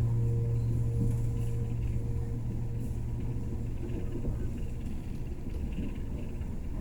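Steady low rumble of a train running, while the last held notes of piano music die away over the first couple of seconds.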